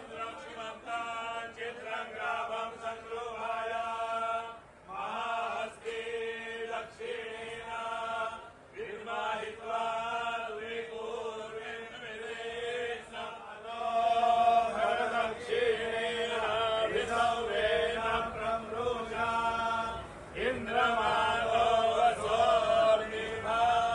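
A group of voices chanting together in unison, in repeated phrases of long held notes, growing louder about halfway through.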